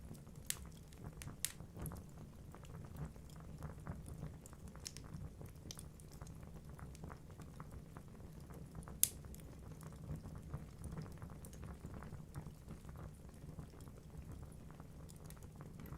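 Wood fire burning in a fireplace: logs crackling with irregular small pops over a steady low rumble of the flames, with one sharper, louder pop about nine seconds in.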